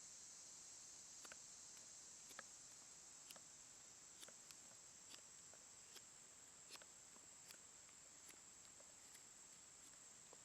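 Near silence: a steady faint high hiss, with faint light clicks scattered about once a second.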